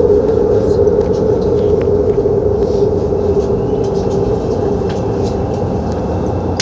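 Shinbundang Line metro train running on the rails, a steady rumble with a strong hum that eases slightly over the first few seconds, and a few faint clicks.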